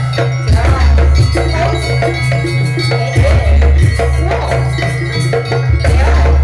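Jaranan music: a Javanese percussion ensemble of drums and bronze gong-chimes playing a steady, rhythmic piece over a heavy low bass, with a melody line on top.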